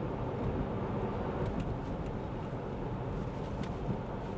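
Steady road and tyre noise with a low hum, heard from inside the cabin of a Lexus ES 350 sedan on the move, with a few faint ticks.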